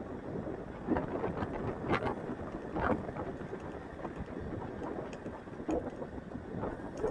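Wind rushing over the microphone and road noise on a moving motorcycle, with a few brief knocks about one, two, three and nearly six seconds in.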